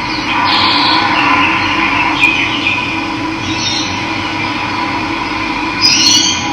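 Running water, a steady rushing flow, with birds calling a few times over it, the last call near the end rising in pitch.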